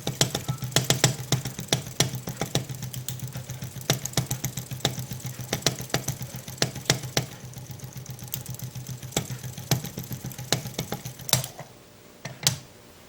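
Small low-temperature-difference Stirling engine running, its mechanism giving off rapid, uneven clicking over a steady low hum. Both stop near the end, followed by a couple of lone clicks.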